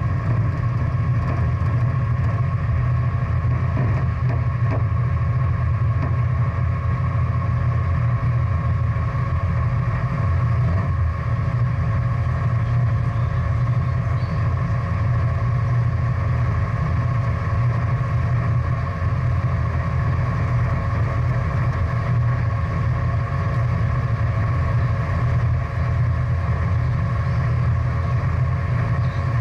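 Big-block V8 muscle-car engine idling with a steady, deep rumble.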